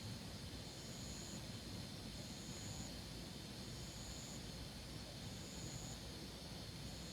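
Faint calling of insects: one steady high trill and a second, higher call that comes in pulses of under a second, about every second and a half, over a low rumble.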